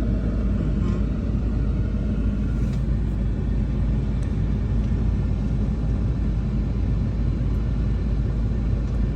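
Car cabin noise while driving over a rough, unfinished road surface: a steady low rumble of tyres and suspension over the bumpy road, with engine hum.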